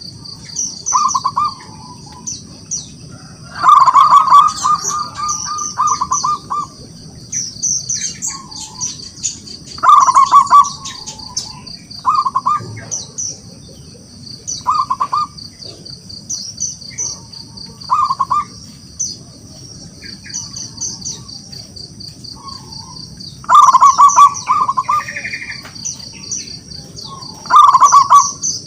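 Zebra dove (perkutut) cooing: phrases of rapid staccato coos repeated every few seconds, some much louder than others. It is the territorial song that draws a rival dove to answer.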